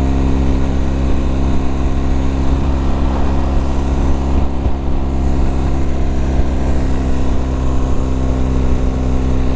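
Motorcycle engine running at a steady cruise, a constant low drone that holds one pitch.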